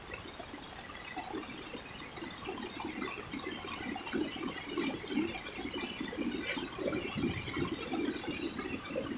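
Heavy rain falling, with splashing, pouring water that grows louder about three seconds in.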